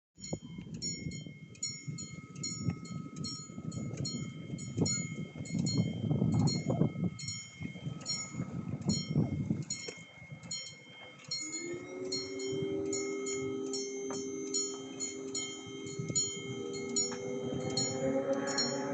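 Railway level crossing bell ringing with fast, even metallic strokes. A low rumble runs under it for the first half, and a steady low hum comes in about eleven seconds in.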